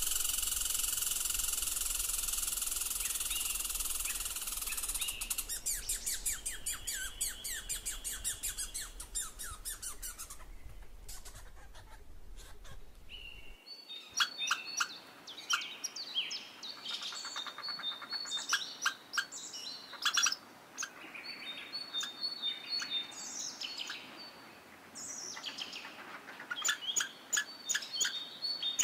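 Birds chirping and singing: a dense, steady chorus at first, then separate chirps, quick trills and short repeated high notes after an abrupt change about halfway through.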